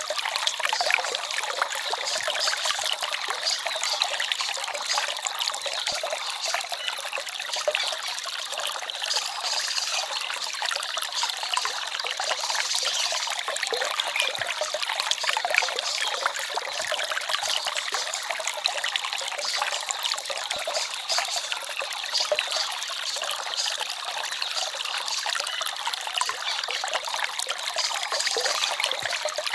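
Small forest stream trickling and splashing over stones, a steady, bright babble of water with little low rumble.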